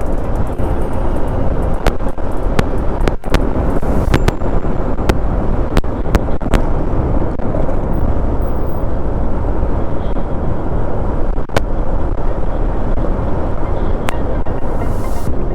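Motorcycle riding heard on an action camera: a steady rush of wind and engine noise, crossed by scattered sharp clicks.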